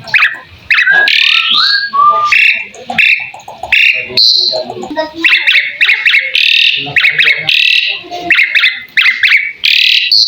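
Asian pied starling (jalak suren) singing: a fast, unbroken string of varied notes. Slurred whistles, rapid chattering clusters and harsher rasping calls follow one another without a pause.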